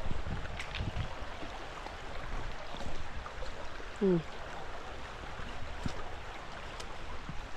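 Creek water running over rocks as a steady rushing wash, with one short falling squeak or cry about four seconds in.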